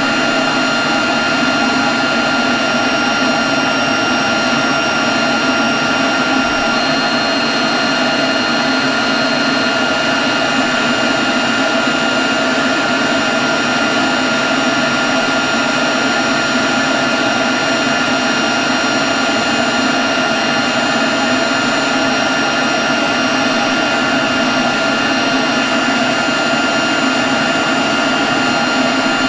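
Leaf blower running steadily at one constant speed: an even rush of air with a steady high whine on top.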